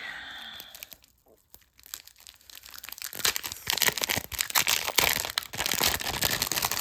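Packaging being handled and crinkled: after a quiet first couple of seconds, a dense crackling and rustling builds up and carries on.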